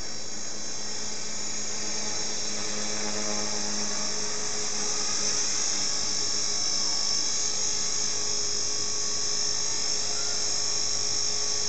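Electric motor and propeller of a radio-controlled model aircraft, a steady high-pitched whine with no break, growing slightly louder.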